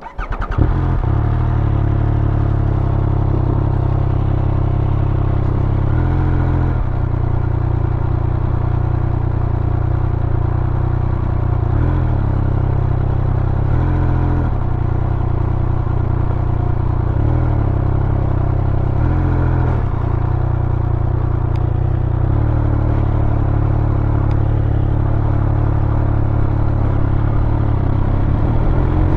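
Triumph Speed Triple 1200 RS motorcycle's inline-three engine comes in suddenly right at the start, then runs at low revs. Its pitch steps up and down every few seconds with throttle and gear changes as the bike rolls slowly over dirt and onto pavement.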